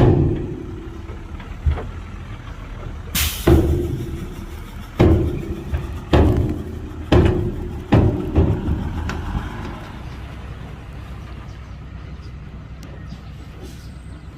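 Heavy diesel machinery running, with a series of loud metallic bangs that ring on briefly, about six in eight seconds, one with a sharp hiss. After that the engine runs on alone.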